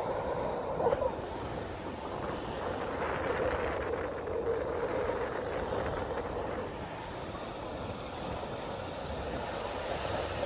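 Steady rushing background noise with a constant high hiss and no distinct events.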